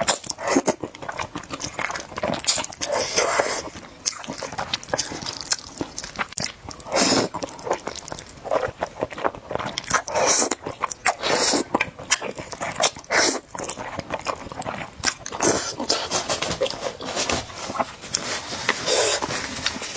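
Close-miked eating of spicy noodles: wet slurps, smacks and chewing clicks follow one another in quick, irregular succession.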